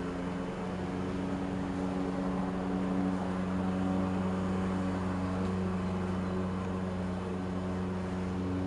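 Steady machine hum: a constant low drone with a faint hiss under it, unchanging throughout.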